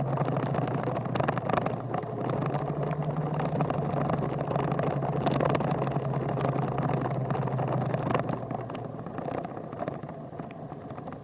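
A vehicle engine running steadily with a low hum, with scattered light clicks over it, easing off a little near the end.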